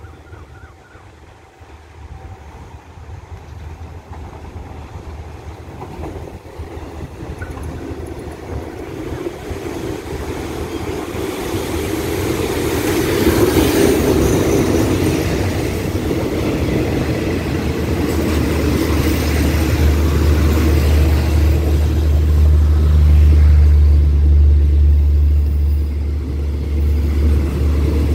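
A diesel-hauled passenger train pulling into a station: the locomotive grows louder as it approaches and passes about halfway through, then the coaches roll slowly past with a steady low drone.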